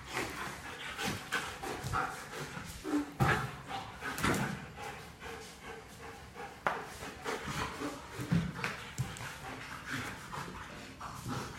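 A dog panting, with scattered short clicks and knocks.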